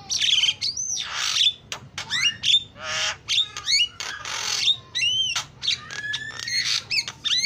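Javan myna (jalak kebo) singing a fast, varied song: quick rising and falling whistles mixed with harsh squawks and sharp clicks, with no pause.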